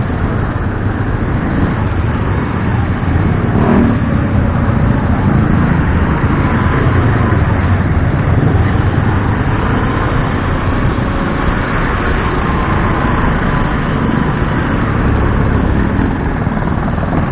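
Motorcycle riding along in traffic: a steady engine and road rumble with wind noise on the rider's microphone.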